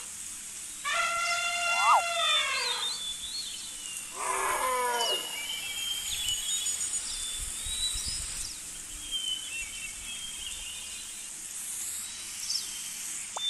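A loud, pitched animal call with many overtones, held about a second and a half and falling at its end, then a shorter falling call about three seconds later. Small birds chirp faintly through the rest.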